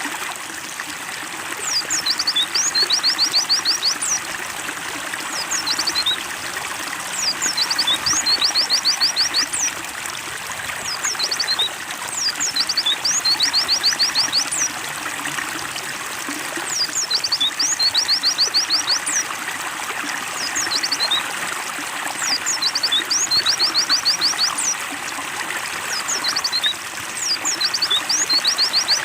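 Steady trickling water with a white-eye (pleci) singing over it. Each song phrase is a quick series of high chirps, about two seconds long, and the phrases repeat about every five seconds; the song is the loudest sound.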